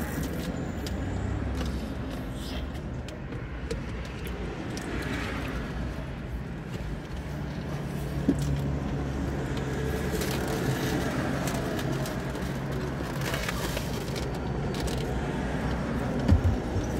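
Steady low hum of a car's engine idling while stationary, heard from inside the cabin. There are a couple of soft knocks, one about eight seconds in and one near the end.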